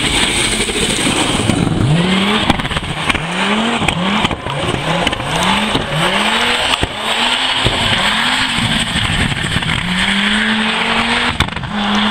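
Audi S2's turbocharged five-cylinder engine revving hard as the car is driven at speed, its pitch climbing again and again in short rises, then holding a longer, steadier note near the end.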